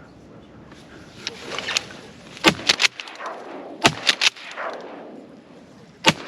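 Three shotgun shots at a duck, about a second and a half and then two seconds apart, each ringing out over open marsh. The shooter misses with all three.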